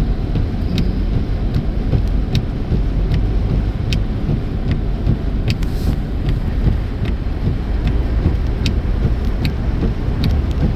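Car cabin road noise at highway speed: a steady low rumble of engine and tyres, with scattered sharp ticks.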